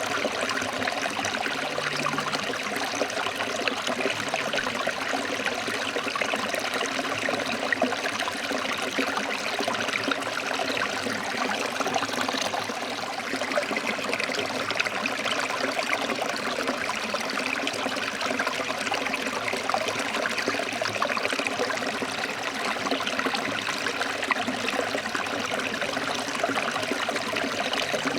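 Forest stream flowing and trickling over rocks, a steady, even rush of water.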